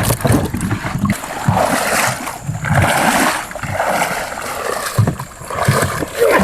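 Water splashing in irregular bursts with low thuds, as a fishing net is hauled through shallow water.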